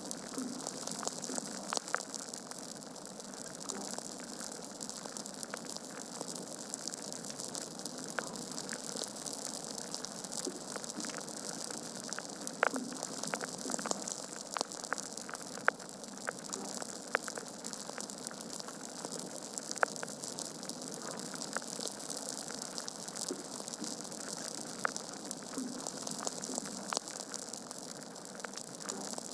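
Logs burning in a fireplace, crackling: a steady hiss with frequent small pops and snaps and a few sharper, louder cracks scattered through.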